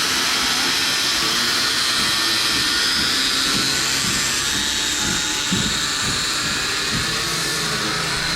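A power tool running steadily with a high whine, loud and unbroken throughout.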